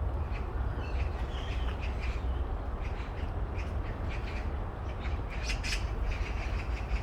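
Birds calling in short, repeated calls that come thicker about five to six seconds in, over a steady low rumble.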